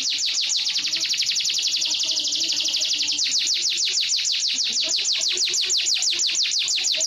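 Canary singing a long, rapid trill of high downward-sweeping notes, about eight to ten a second.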